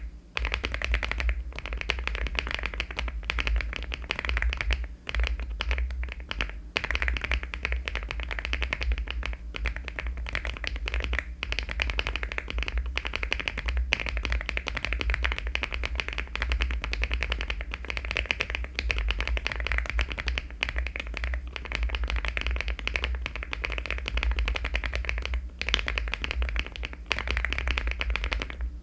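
Fast, continuous typing on a LEOBOG Hi75 aluminium mechanical keyboard fitted with HMX switches and Cherry-profile keycaps: a dense run of key clacks with only a few short pauses.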